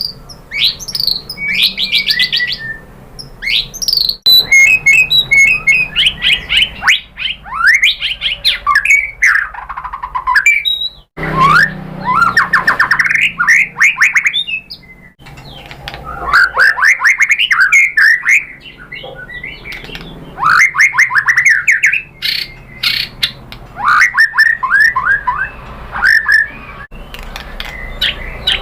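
White-rumped shama (murai batu) singing: loud, varied phrases of rapid trills and whistled notes, breaking off abruptly several times.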